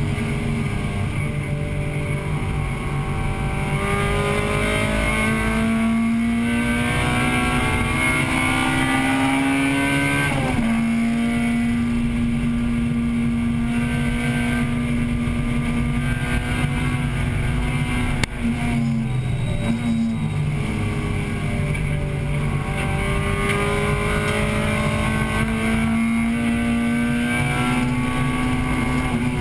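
A racing Acura Integra Type-R's engine, heard inside the cabin, pulls hard, its pitch climbing for about ten seconds. The pitch drops suddenly, then holds high for several seconds. After a brief lift about eighteen seconds in, it climbs again toward the end.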